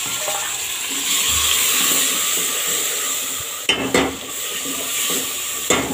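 Chopped tomatoes and green chillies sizzling in hot oil in a pot while a spoon stirs them, with a few sharp knocks of the spoon against the pot about two-thirds of the way through and near the end.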